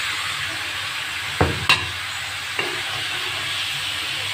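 Chicken pieces with freshly added tomatoes and green chillies sizzling in oil in a wok while being stirred. There is a steady frying hiss, with two sharp knocks of a utensil against the pan about a second and a half in and a lighter one a second later.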